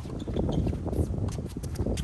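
Strong wind buffeting the microphone in an uneven low rumble, with a few light, sharp clicks in the second half.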